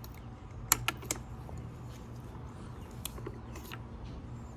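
A few light clicks and taps of hand tools on metal, three close together about a second in and a couple more later, as a socket is worked at a spark plug that won't come out, over a steady low hum.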